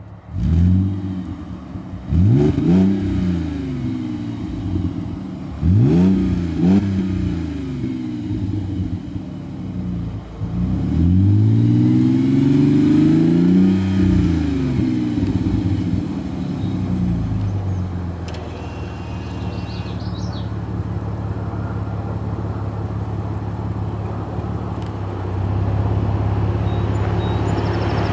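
Audi 3.2 FSI V6 exhaust through Flowmaster 40 Series Delta Flow mufflers, free-revving at a standstill. There is a surge just after the start, two quick blips, then a longer rev about halfway through, and after that it settles to a steady idle.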